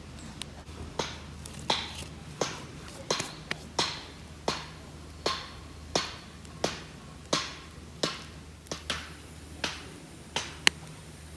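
Repeated blows of a hand tool at a steady pace, about fifteen sharp strikes spaced roughly two-thirds of a second apart, each with a short ringing tail.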